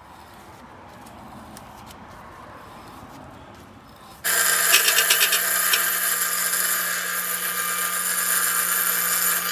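33 cc two-stroke trimmer engine of an RC boat running at high revs, a steady buzzing whine that comes in abruptly about four seconds in after faint background noise.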